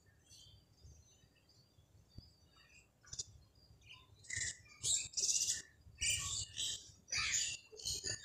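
Birds chirping, faint and scattered at first, then a run of loud, quickly repeated chirps from about halfway through.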